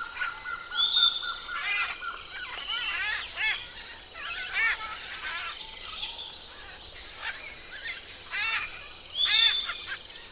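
Parrots calling: runs of short, quick chirps, several birds at once, with a few sweeping whistles.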